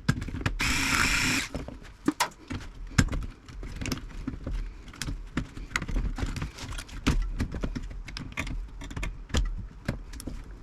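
Tools and metal parts clinking and tapping while an old Philco valve radio chassis is taken apart for scrap: a steady run of small irregular knocks and clicks. A short scraping hiss comes about a second in.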